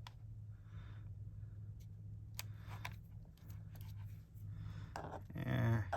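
Paper cardstock being handled on a craft table: scattered soft taps, clicks and rustles over a steady low hum, with a short pitched sound near the end.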